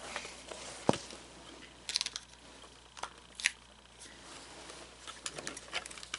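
Irregular clicks, knocks and light crackling of plastic parts being handled and pried while an animatronic figure is taken apart, with the sharpest knock about a second in.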